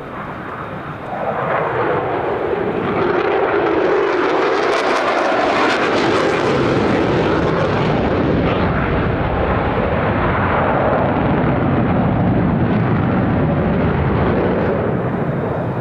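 Mitsubishi F-2B fighter's single F110 turbofan roaring as the jet makes a low pass. The sound swells about a second in, sweeps down in pitch over the next few seconds, then holds a broad roar that eases near the end.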